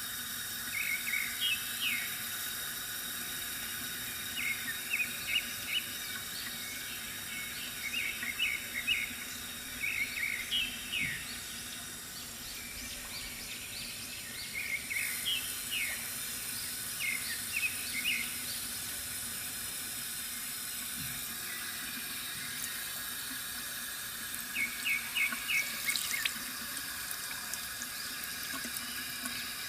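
Water running steadily from a bamboo fountain, with birds chirping in short bursts of quick notes every few seconds.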